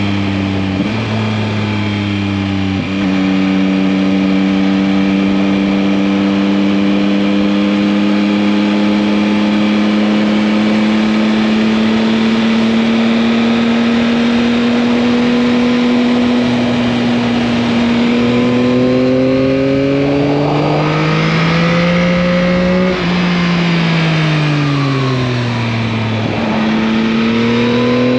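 A 2021 Yamaha MT-09's 890 cc three-cylinder engine running while riding. Its pitch steps down twice in quick succession near the start, holds a steady cruise that slowly climbs, pulls up harder about two-thirds through, then falls away and rises again near the end.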